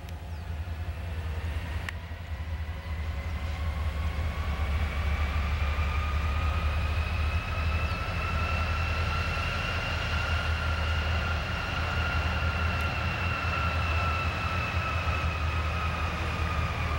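Diesel freight locomotives pulling a train, their low engine rumble growing louder over the first few seconds as they approach and then holding steady. A whine runs over the rumble, rising slightly in pitch and then falling back.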